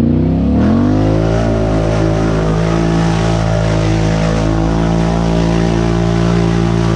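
ATV engine revving up over the first second or so, then held at steady high revs.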